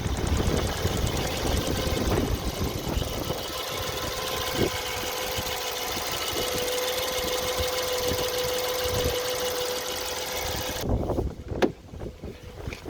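BMW N43 four-cylinder petrol engine running steadily, the engine in which the owner is chasing an intermittent knock. Near the end the running sound drops away suddenly, and a few sharp clicks or knocks follow.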